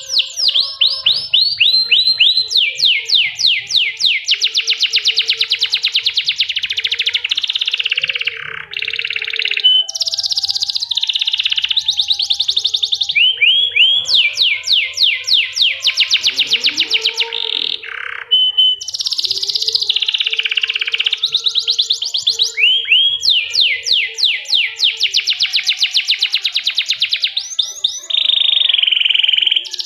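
Domestic canary singing a long, loud song of rolling trills and runs of fast repeated notes sweeping up and down, with only brief pauses between phrases.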